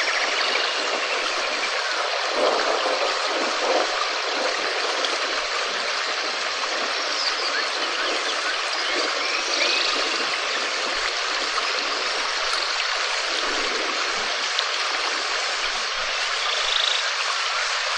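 Steady rain falling, an even, dense hiss, with a few faint short chirps over it.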